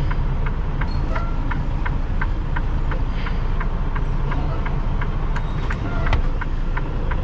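Freightliner Cascadia semi-truck's diesel engine running at low speed while the rig is steered into a parking spot, heard from inside the cab as a steady low rumble. Over it, a regular clicking about three times a second.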